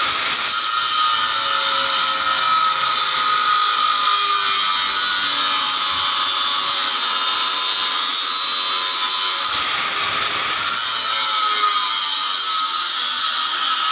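A small power tool running steadily with a high whine over a hissing grind, its pitch dipping slightly a couple of times.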